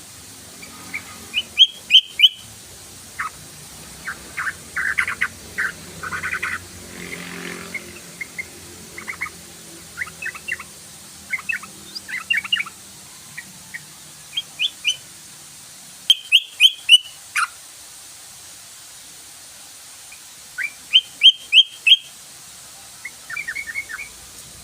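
Yellow-vented bulbul (trucukan) song: repeated clusters of short, quick, bubbly chirps, with the loudest runs near the start, about two-thirds through, and near the end.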